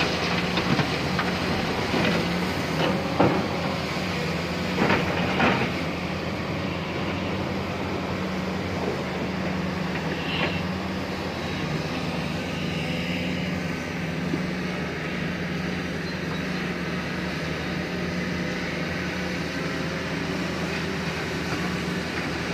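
Large excavator's diesel engine and hydraulics running steadily, heard from the operator's cab, with a few knocks in the first six seconds.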